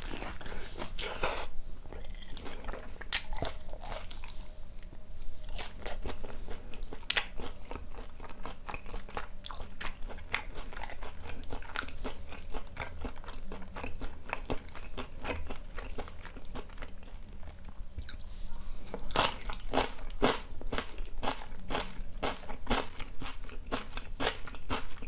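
Close-up chewing and crunching of crispy batter-fried chicken: a bite, then steady chewing with many small crisp crackles, which come thicker and louder in the last few seconds.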